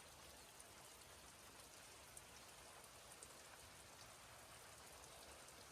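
Faint, steady rain falling, with small scattered ticks of drops.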